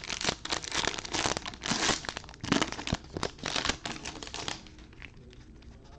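A trading card pack's wrapper crinkling and tearing as it is opened. The dense crackling lasts about four and a half seconds, then dies down.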